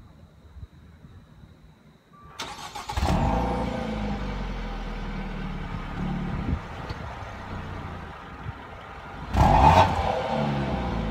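2015 Dodge Dart GT's 2.4-litre four-cylinder engine heard at its dual tailpipes: it starts about two and a half seconds in, flares up as it catches and settles into an idle. About nine seconds in it is revved once, then drops back to idle.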